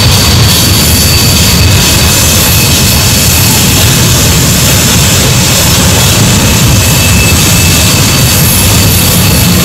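Freight train cars rolling past: a loud, steady rumble and rush of steel wheels on rail with a faint steady high squeal, typical of wheels on a tight curve.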